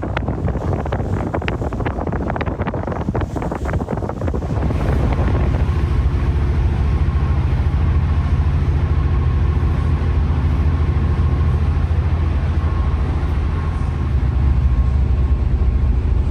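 Wind buffeting the microphone for about four seconds, then a steady low engine drone that runs on without change.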